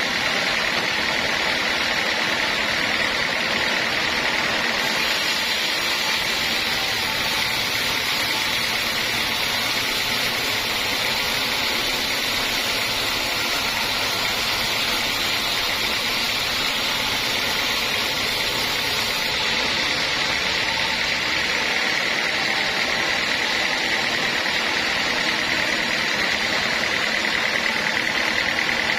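Homemade band sawmill running steadily while sawing a teak log: a constant machine drone with a high whine. The hiss turns brighter from about five seconds in until about two-thirds of the way through.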